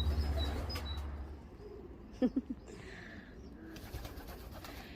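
Young racing pigeons cooing, with a short burst of coos a little over two seconds in. Under the first second and a half there is a low rumble that fades away.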